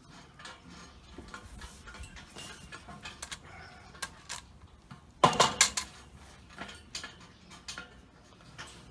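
Scattered light clicks and taps, with one loud clattering knock about five seconds in.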